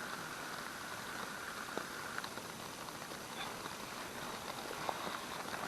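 Faint steady hiss with a few light, scattered ticks: quiet outdoor background noise.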